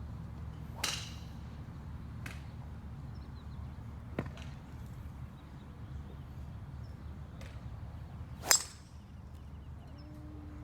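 Golf club strikes on golf balls: a sharp crack about a second in, fainter ones near two and four seconds, and the loudest about eight and a half seconds in, with a short ring. A steady low rumble runs underneath.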